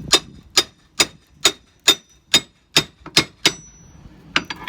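Wood-handled hammer striking a crowbar about twice a second, a steady run of sharp blows, each with a short metallic ring, driving the bar in behind old window frame trim to pry it off.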